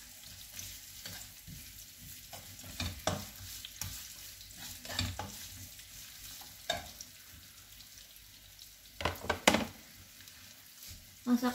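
Chopped shallots and garlic sizzling in hot oil in a wok, with a spatula scraping and clicking against the pan as they are stirred. Two louder knocks come about nine seconds in.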